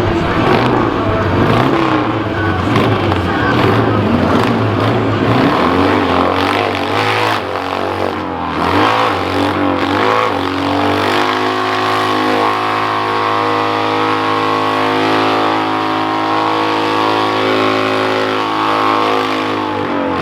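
Engine revving hard during a burnout. The pitch rises and falls at first; from about halfway it is held at a steady high note until the end.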